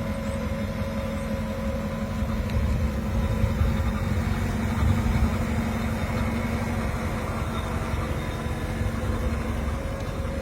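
Car engine idling steadily with a low, even rumble, with slight swells a few seconds in.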